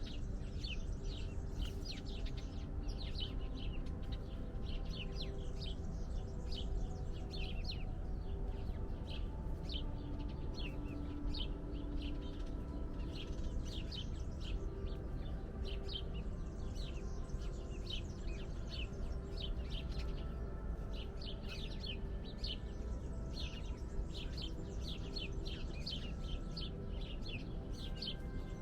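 A chorus of small birds chirping: many short, high chirps overlapping one another without pause, over a steady low rumble.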